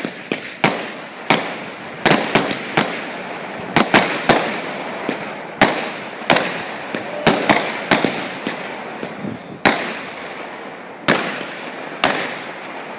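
Fireworks display: sharp bangs of aerial shells and firecrackers at irregular intervals, roughly two a second, some in quick clusters, over a steady noisy background.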